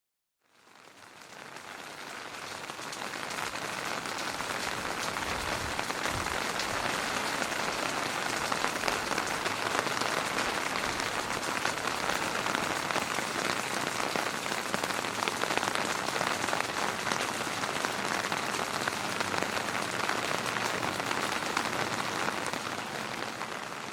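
Steady heavy rain, a dense patter of drops, fading in over the first couple of seconds and fading out at the end.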